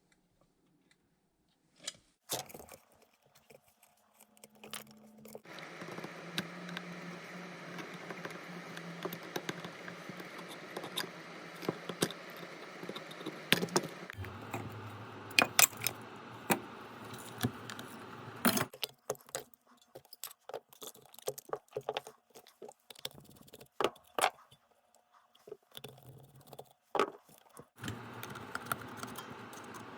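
Small hand tools working on a small plastic device: sharp clicks, knocks and scrapes, over stretches of a steady electric hum from about five to nineteen seconds in and again near the end.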